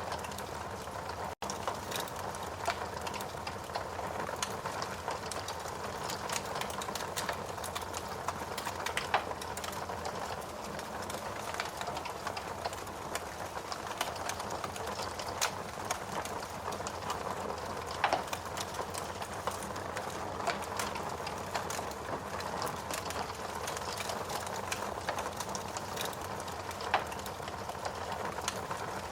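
Wood fire burning in a fireplace: a steady hiss of flames with frequent, irregular crackles and sharp pops from the burning wood, a few pops louder than the rest.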